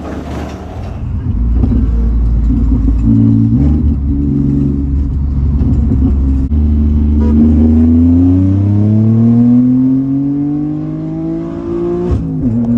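Car engine accelerating, heard from inside the cabin: its pitch climbs steadily for several seconds, drops sharply near the end as if at a gear change, then holds steady.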